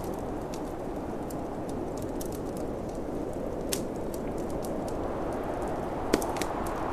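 Wood fire crackling in a fireplace, with scattered sharp pops, the loudest one about six seconds in, over a steady low rush of storm wind.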